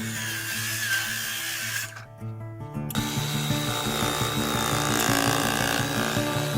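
An electric drill running with a steady whine, stopping briefly about two seconds in and starting again at a higher pitch, over background music.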